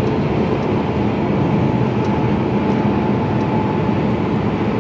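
Steady engine and road noise inside the cab of a Mercedes-Benz Actros lorry on the move, an even rumble with no changes.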